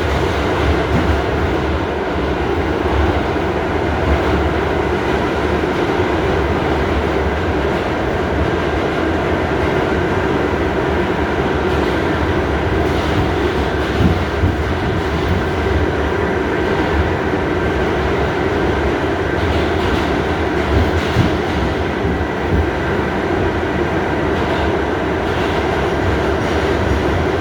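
Inside an R68A subway car running at speed: a steady rumble of wheels and motors on the rails, with a few sharper knocks from the wheels passing over rail joints.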